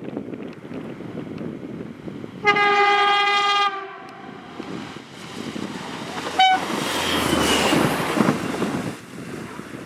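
Train horn sounding one steady note for just over a second, then a very short second toot a few seconds later, followed by about two seconds of loud rushing noise with a low rumble.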